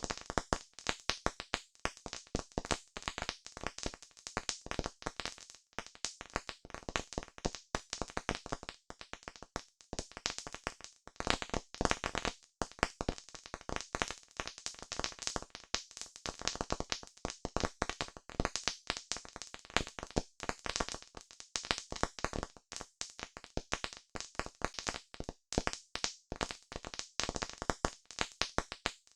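Campfire crackling steadily, with a dense, irregular stream of sharp snaps from the burning wood, many each second.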